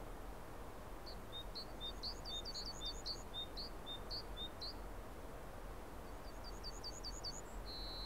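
A small bird calling in two runs of quick, high chirps, then a short steady high note near the end, over a faint background hiss.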